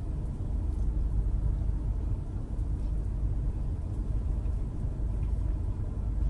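Steady low rumble of a car idling, heard inside the closed cabin.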